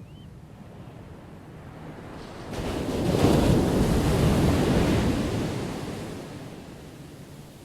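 Ocean wave breaking: the surf swells about two and a half seconds in, crashes loudly for a couple of seconds, then washes back and fades, over a steady low rumble of surf.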